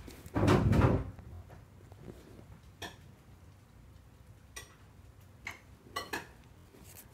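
A loud, short scuffing bump about half a second in, then a few light clicks and taps scattered over the next several seconds.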